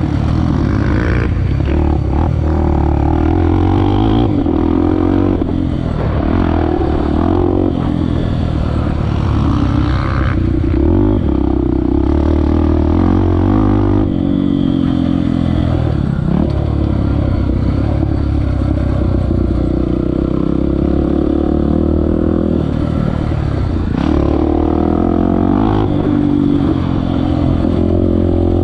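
Honda Tornado 250's single-cylinder four-stroke engine under way on a dirt track, its pitch rising and falling repeatedly as the throttle is opened and closed.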